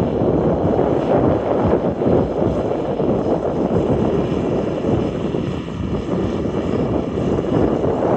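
John Deere 4955 tractor's six-cylinder turbo diesel running steadily, a dense, even engine sound with no sudden changes.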